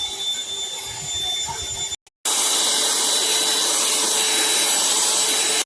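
Cordless handheld vacuum cleaner motor running steadily with a high whine, first quieter, then after a brief silence about two seconds in, much louder and closer as a rushing hiss until it cuts off abruptly at the end.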